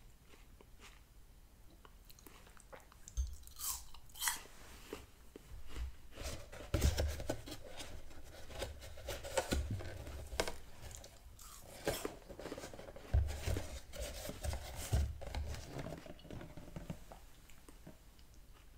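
Crisp apple slices being bitten and chewed close to the microphone: a run of sharp crunches with chewing between them, dying down near the end.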